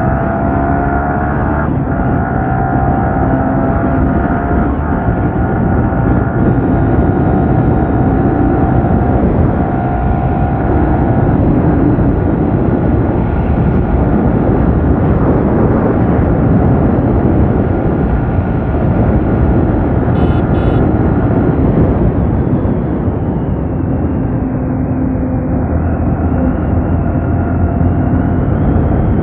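Yamaha R15 V3's single-cylinder four-stroke engine through its stock exhaust, pulling at highway speed, with heavy wind rush over the microphone. The engine note steps up and down with the throttle, fades about three-quarters of the way through and picks up again near the end.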